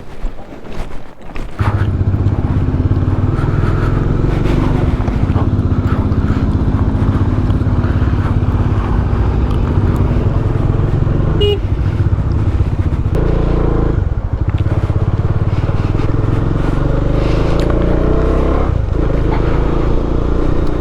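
A motor vehicle's engine running steadily on the move, starting suddenly about a second and a half in, its note shifting about two-thirds of the way through.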